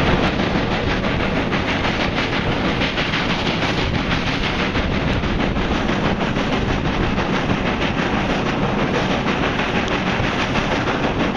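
Steady rumble and rattle of a moving passenger train, heard from aboard a carriage.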